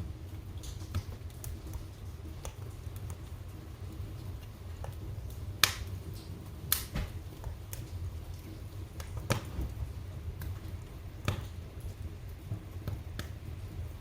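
Wood fire burning in a fireplace: a steady low rumble with irregular sharp crackles and pops, the loudest pops a little before and after halfway.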